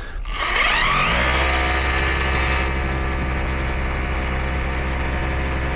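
A motor starting up, its pitch rising over about a second, then running steadily.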